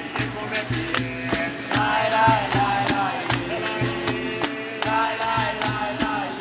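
Capoeira roda music: voices singing over a steady beat of sharp percussion strokes.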